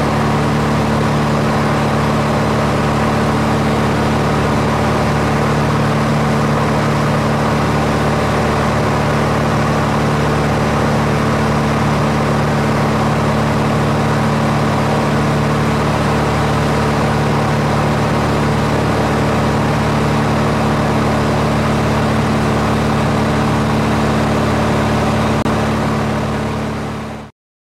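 Aircraft engine running with a steady, even drone, quickly fading out near the end.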